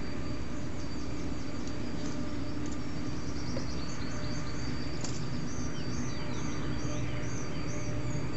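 Small birds singing high, thin chirps: quick runs of notes in the first half, then a steady series of repeated chirps about twice a second, over a steady background rush.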